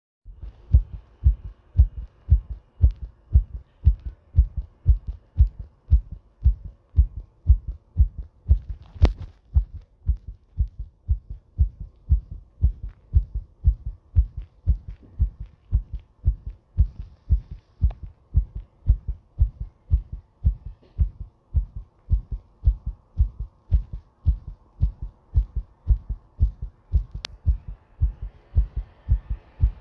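Human heartbeat: steady, evenly spaced low thumps, pounding.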